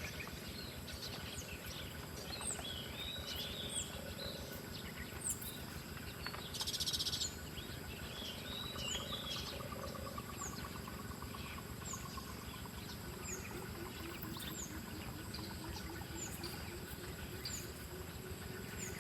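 Wild birds chirping and twittering in short phrases over a steady high insect drone, with a brief loud buzzy call about seven seconds in.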